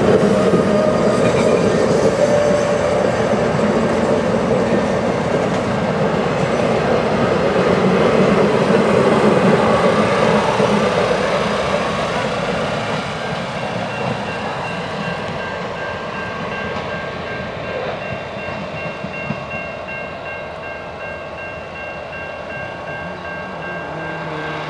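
Passenger cars and caboose of a train rolling past, a loud, even wheel-on-rail rumble that fades after about twelve seconds. From about fourteen seconds in, a railroad crossing bell rings steadily over the quieter train.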